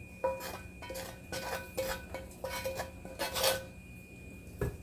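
A utensil scraping the bottom of a metal pan in a run of short strokes, the pan ringing faintly with each one, to get the browned onion bits off. The longest scrape comes about three and a half seconds in, and a dull knock follows near the end.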